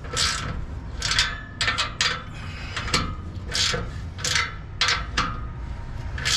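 Short scraping and rubbing strokes, repeated roughly once or twice a second at uneven intervals, from hand work tying up a car's exhaust pipe, over a low steady rumble.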